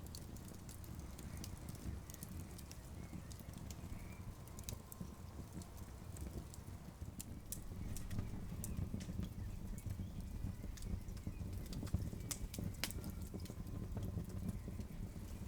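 Campfire burning, with irregular sharp crackles and pops from the wood over a low, steady rumble; one louder pop comes about twelve seconds in.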